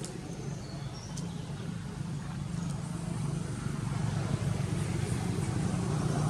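A motor engine running steadily, growing louder toward the end, with a few faint short high chirps about a second in.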